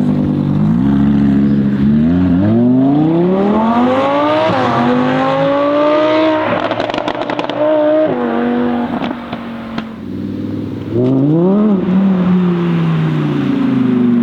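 Audi R8 V10 Performance's V10 through a Capristo aftermarket exhaust, accelerating hard: the pitch climbs for several seconds, dips briefly at a gear change, and holds high with a burst of crackles about seven seconds in before dropping away. Near the end the engine note rises sharply and falls again.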